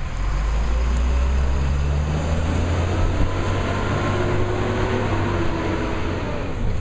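Labrie Cool Hand garbage truck running, its engine holding a loud, steady low drone with a slight shift in pitch partway through.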